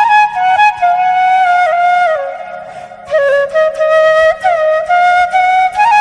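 Background music: a flute playing a melody with sliding ornaments between notes, easing off briefly about halfway through.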